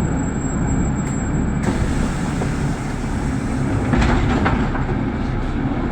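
City bus cabin noise while riding: steady engine and road rumble, with a brief louder burst about four seconds in.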